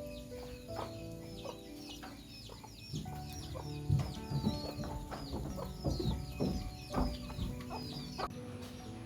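Birds calling in many quick, high, repeated chirps over soft background music, with a burst of louder, lower short calls in the middle.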